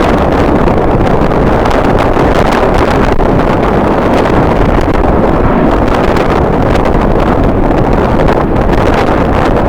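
Strong wind buffeting the microphone: a loud, even rush of noise, heaviest in the low range, with no let-up.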